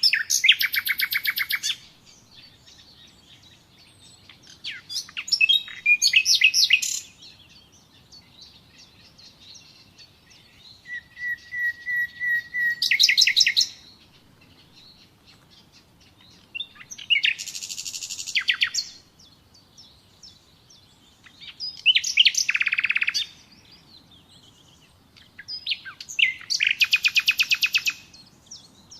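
Common nightingale singing: six separate phrases of fast trills and repeated notes, each lasting a second or three, with pauses of a few seconds between them. One phrase near the middle opens with a run of slow, even repeated notes before breaking into a rapid trill.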